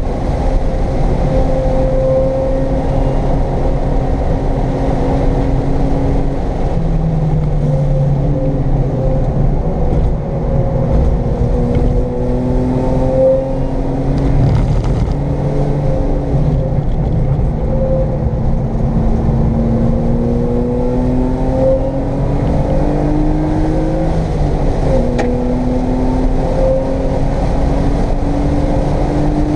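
1995 BMW M3's straight-six engine heard from inside the cabin while driven hard on a race track. The engine note falls and climbs with the revs, dropping sharply about three-quarters of the way through and then rising again.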